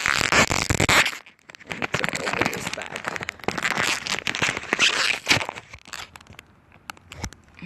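Crinkling and crackling of plastic being handled close by, in irregular stretches with two short pauses.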